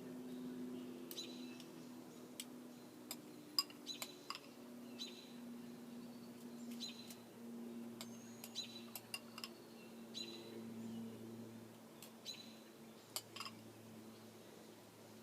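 Faint clinks and taps of a spoon against metal cookie-cutter forms and a tray as a birdseed-and-gelatin mixture is pressed in. Short bird chirps repeat about once a second over a low steady hum.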